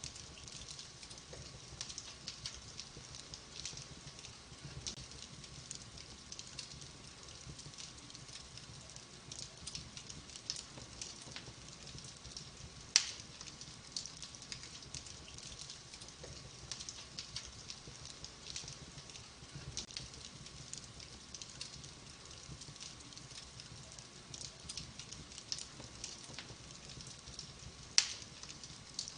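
Wood fire in a fireplace crackling, with many small snaps and two louder, sharp pops, about thirteen seconds in and near the end.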